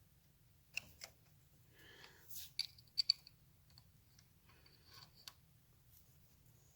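A handful of light metallic clicks from a chain press tool being worked by hand, pressing the side plate of a new X-ring chain's master link onto its pins; two of the clicks come close together near the middle.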